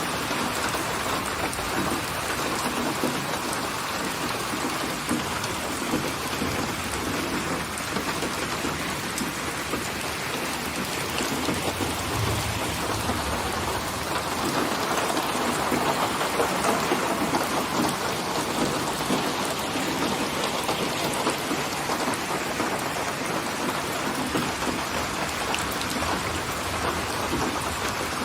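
Steady heavy rain falling on a surface, with a low rumble of thunder swelling around the middle.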